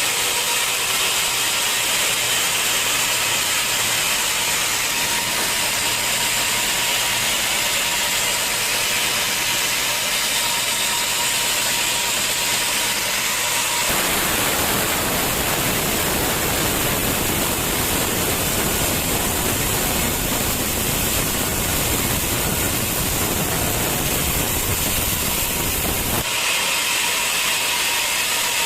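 Sawmill saw running steadily with a hissing whine. About halfway through the sound abruptly fills out lower down with a rougher, denser noise. It switches back just as suddenly near the end.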